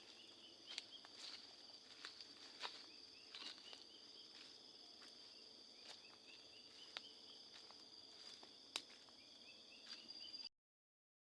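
Faint steady drone of insects with small repeated chirps, over scattered light crackles and ticks of footsteps through dry undergrowth. The sound cuts off abruptly near the end.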